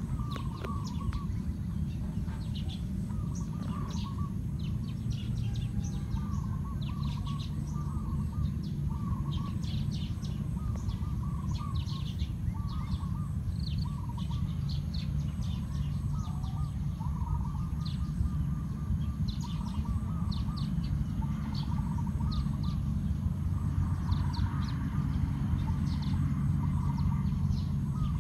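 Birds calling: a short wavering note repeated about once a second and many quick high chirps, over a steady low rumble.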